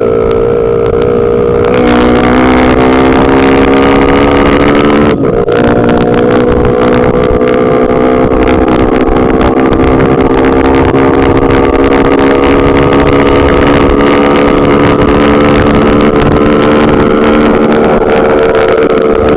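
Bajaj Pulsar RS200's single-cylinder engine running at steady high revs under way. It breaks briefly about five seconds in for a gear change, then pulls on with its pitch slowly creeping up.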